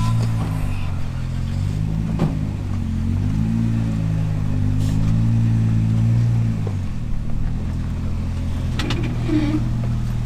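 Off-road Jeep's engine revving in rising and falling swells under load, settling to a steadier note about seven seconds in. A sharp knock about two seconds in.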